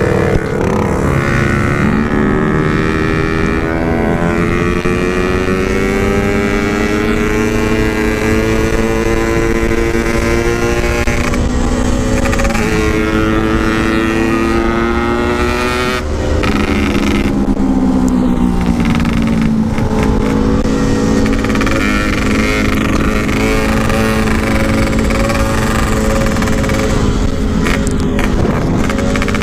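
Yamaha RX-King two-stroke single engine, with a ported block and oversize piston, running hard at high revs under full throttle, with heavy wind rush. The engine note climbs slowly, drops suddenly about 16 seconds in as a gear is shifted, then holds nearly steady.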